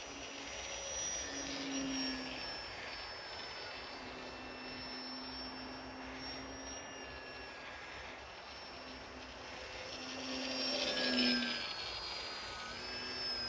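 Electric motor and 7x6 propeller of a small foam radio-controlled warbird in flight: a thin, high whine that swells as the plane passes, loudest about two seconds in and again near eleven seconds, with its pitch drifting and dipping as it goes by.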